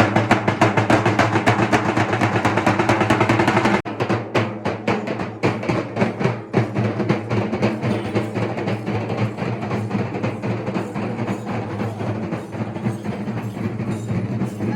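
Drum-heavy percussion music: dense, rolling drumming over steady held tones. It changes abruptly and thins out about four seconds in.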